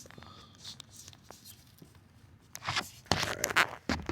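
A rag wiping the oil filter mounting surface: a few quick, scratchy rubbing strokes in the second half, after a quieter stretch with light handling clicks.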